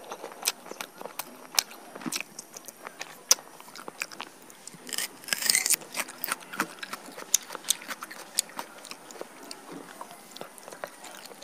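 Close-miked chewing of roasted chicken, with many small wet mouth clicks and a louder crunchy stretch about halfway through.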